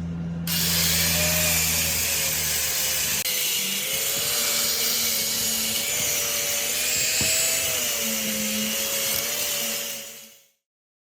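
An electric power tool running steadily: a low motor hum, joined about half a second in by a loud hiss and a wavering whine, which stops near the end.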